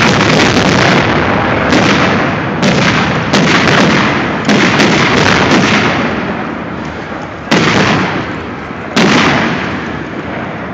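Aerial firework shells bursting: a dense barrage at first, then six separate sharp bangs, each trailing off slowly, spaced further apart towards the end.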